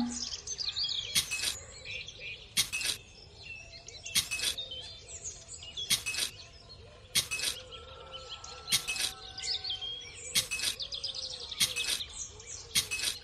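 Short scraping strokes of a small plastic tool in sand, about every one and a half seconds, as seeds are covered over. Birds chirp in the background throughout.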